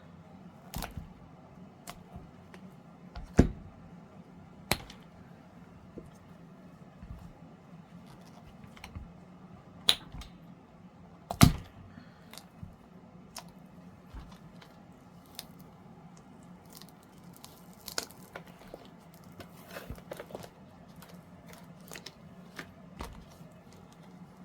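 A silicone tray mold being flexed and peeled off a cured resin tray, giving scattered clicks and knocks, the loudest about three and a half seconds in and again about eleven seconds in.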